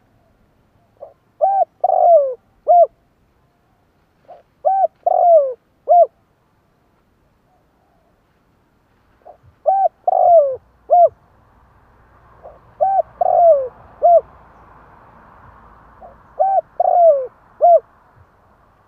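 Spotted dove cooing: five phrases of a few notes each, each phrase built around a longer falling coo, with pauses of a second or two between phrases.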